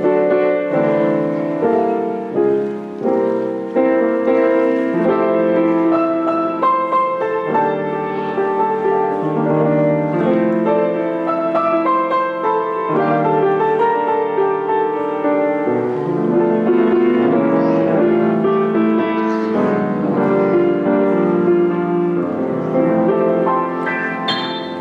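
Instrumental piano music: a slow piece played in chords, the notes held and changing about once a second.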